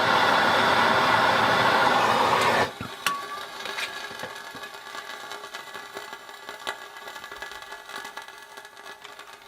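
Gas torch flame hissing steadily while heating a soldered copper pipe joint, cut off suddenly about two and a half seconds in. Faint clicks and ticks follow.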